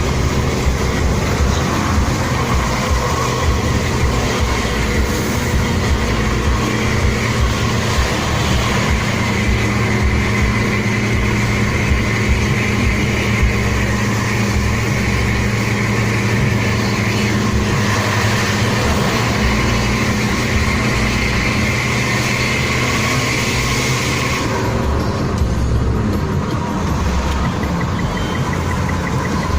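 Steady engine drone with road and wind noise, recorded from a vehicle moving at highway speed. The high hiss drops away about 25 seconds in.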